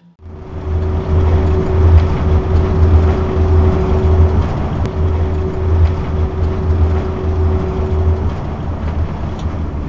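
Beaver motorhome driving at highway speed: a steady, loud road and engine rumble with a pulsing low drone, and a steady hum that fades out about eight seconds in.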